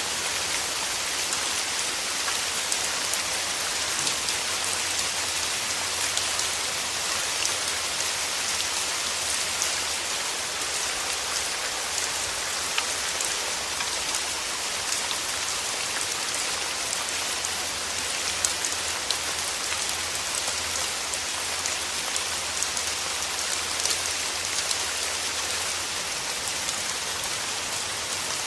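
Steady rain falling on rose petals: a dense, even hiss with many small, sharper drop ticks scattered through it.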